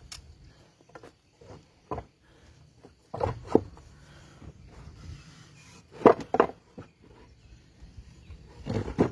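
Scattered knocks and clunks of things being handled in a woodshop. There is one about two seconds in, a close pair a little after three seconds, another close pair about six seconds in, and one more near the end.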